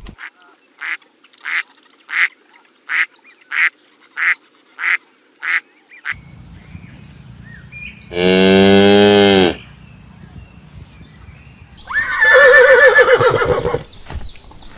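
A duck quacking eight times in quick succession, then a cow mooing once, loud and long, and near the end another loud animal call begins.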